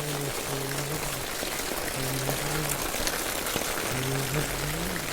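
Heavy rain falling steadily, a dense even hiss. Underneath it, short phrases of a faint pitched voice or tune come and go.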